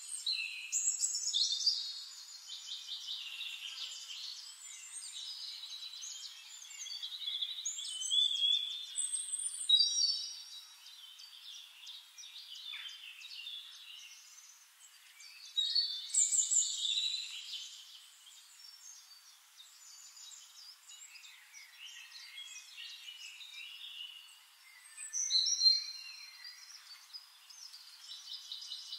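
Several songbirds chirping and singing in a busy chorus of high trills and whistled phrases, swelling louder in a few bursts, with no low sounds beneath them.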